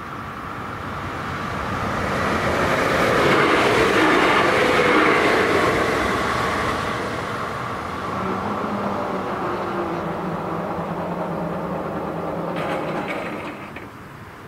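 A train passing over a level crossing, swelling to its loudest a few seconds in and then easing off, while the crossing's electric warning bell keeps ringing. Near the end there are a few clicks, and the sound drops off sharply as the warning ends and the barriers go up.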